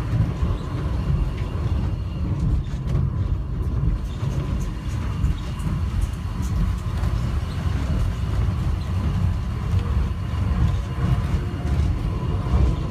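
Airport inter-terminal train car running between stops, heard from inside the car: a steady low rumble of the moving train.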